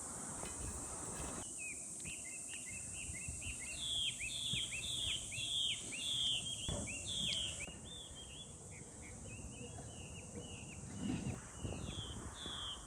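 A songbird singing a long series of short, repeated notes that slide downward, about two a second, starting about a second and a half in. A steady high hiss runs behind it.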